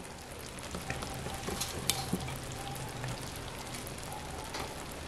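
Mutton karahi in its oily masala sizzling and crackling softly in a hot karahi-shaped pressure cooker, with a few sharp pops about two seconds in and near the end.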